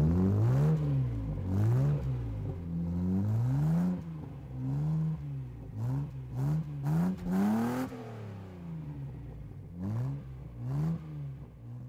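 A car engine revving again and again, its pitch rising and falling with each rev; it starts suddenly and is loudest in the first few seconds.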